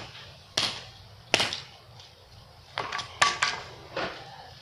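A plastic toy race car being struck hard again and again: two sharp blows about a second apart, then a quick run of four knocks around three seconds in, and one more near the end.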